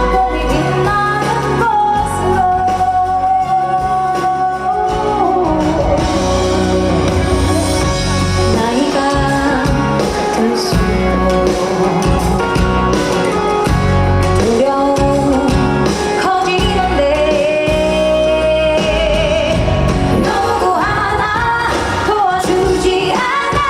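Female pop singer singing live over a band accompaniment with bass and beat, her long held notes wavering with vibrato.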